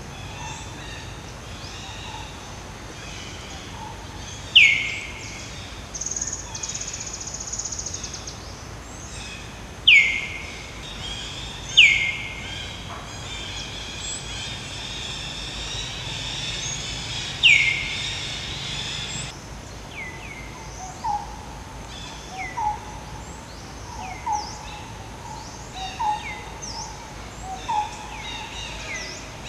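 Wild birds calling: a few loud, short calls that sweep downward, a buzzy trill in the first third, and in the last third a string of short low hoots about every second and a half, over a steady background hiss.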